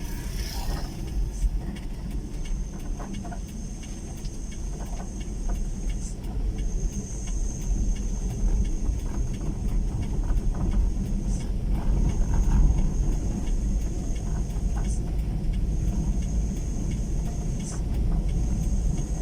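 Motorcycle riding along a rural road: steady low rumble of engine and wind, with scattered faint clicks. A high, steady buzz comes and goes in stretches of a few seconds over it.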